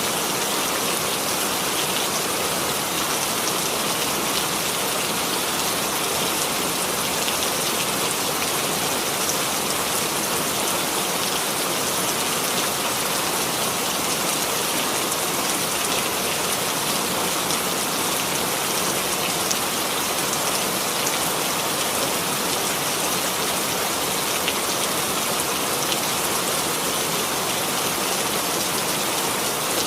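Steady rainfall, an even hiss of rain on a surface with scattered individual drop ticks.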